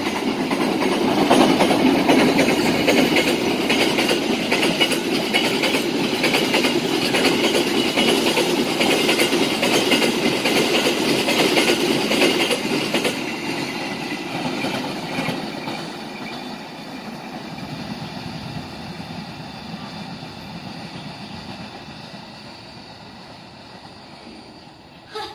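Train passing close by with its wheels clattering over the rail joints, then fading steadily as it moves off down the line.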